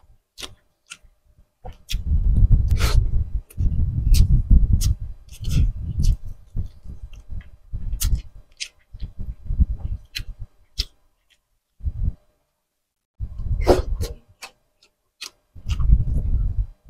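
A person chewing and lip-smacking on grilled tuna jaw meat eaten by hand: uneven runs of wet mouth sounds with sharp smacks and clicks between them.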